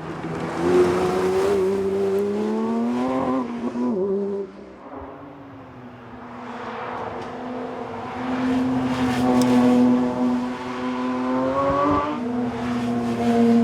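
Porsche 911 S/T's naturally aspirated 4.0-litre flat-six engine pulling hard under acceleration, its revs climbing, then dropping away at a lift-off about four seconds in. It builds again through a long climb, and the pitch drops sharply near the end at a gear change of the six-speed manual.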